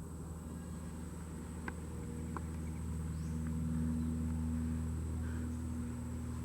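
Distant single-engine propeller airplane droning steadily overhead, growing a little louder around the middle, with a couple of faint short chirps over it.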